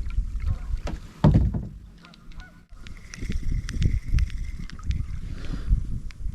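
Kayak being paddled and turned around: paddle strokes and water, with knocks and clicks against the hull and a loud thump about a second in.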